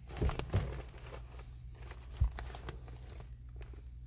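Someone shifting around on attic joists among loose insulation: three dull thumps, two close together right at the start and one about two seconds in, with rustling and crinkling in between, over a steady low hum.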